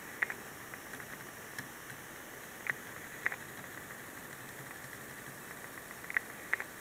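Dell Precision M3800 laptop giving off a faint electrical static: a steady high hiss with sharp crackles at irregular moments, a pair near the start, two in the middle and two near the end. This noise occurs only while the laptop is on mains power, and its pitch shifts with screen brightness.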